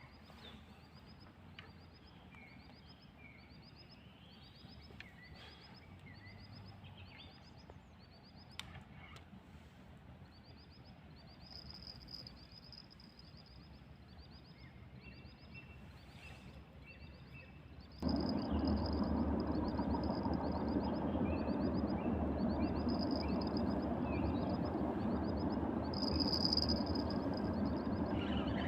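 Night outdoor ambience: a regular high-pitched chirping about twice a second over a quiet background. About two-thirds of the way through, a much louder steady rushing noise cuts in suddenly and the chirping carries on above it.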